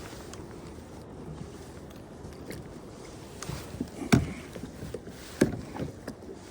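Sharp knocks and thumps on a kayak hull over a low steady background, the two loudest about four and five and a half seconds in.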